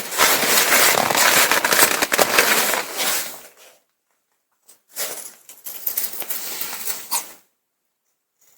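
Crinkling and crackling of a sticky-backed ripstop nylon repair sheet being handled, in two stretches: one of about three and a half seconds, then a shorter one after a pause.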